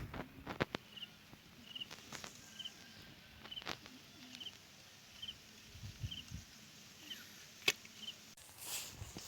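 Quiet rural outdoor ambience: a small creature's short high chirp repeats steadily about once every 0.8 seconds, with scattered sharp clicks and a few low thumps.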